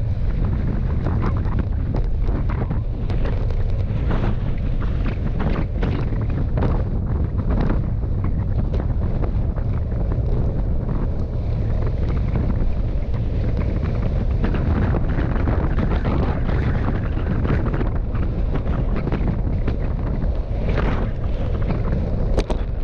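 Strong wind buffeting the microphone: a steady heavy rumble with frequent crackles.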